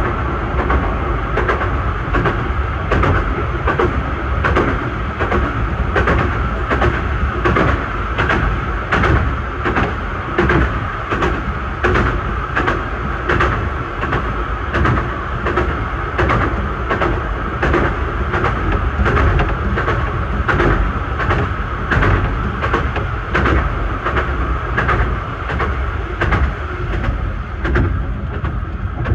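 A 15-inch gauge miniature railway carriage running along the track, heard from inside its rear compartment: a continuous rumble of wheels on rail, with regular sharp clicks as the wheels pass over the rail joints.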